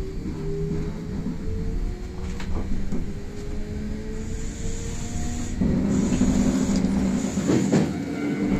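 Electric train running, heard from inside the lead car: the traction motors whine with several tones slowly rising in pitch as it gathers speed, over a steady rumble of wheels on rail, with a few sharp clicks from the track. The running noise grows louder a little past halfway.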